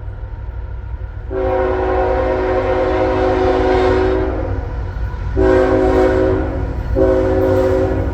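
Diesel freight locomotive's multi-chime air horn: one long blast of about three seconds, then two shorter blasts, over the low rumble of the passing train.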